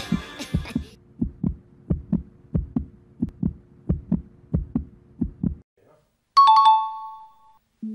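Heartbeat sound effect: pairs of low lub-dub thumps, about one and a half beats a second, over a faint steady hum, stopping a little over five seconds in. After a brief gap, a single bright chime rings and fades.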